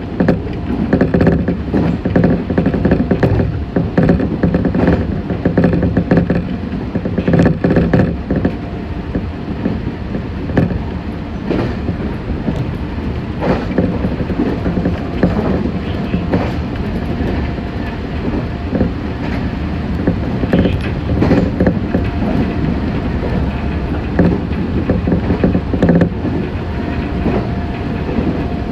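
Meitetsu 6500 series electric train running along the line, heard from inside the front car: a steady rumble of wheels and running gear with occasional clicks as the wheels cross rail joints.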